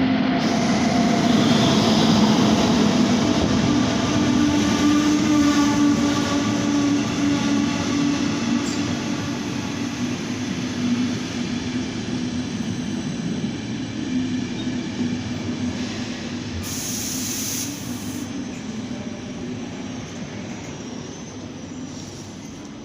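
A train running along the platform, loud at first and slowly fading, with a steady hum and rumble and some wheel squeal. A brief hiss of air cuts in about three-quarters of the way through.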